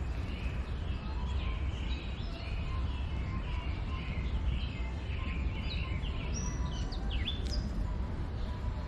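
Several small songbirds chirping in quick, overlapping short notes, with a few fast sweeping calls about seven seconds in, over a steady low rumble of background noise.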